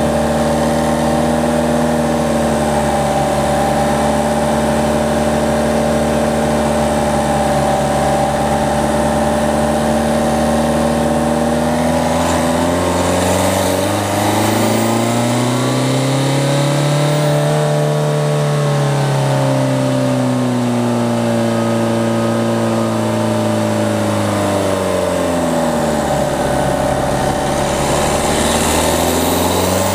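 Peugeot 208's diesel engine pulling along at a steady pitch, then revving up through the middle, easing off again, with a short drop and a fresh climb near the end.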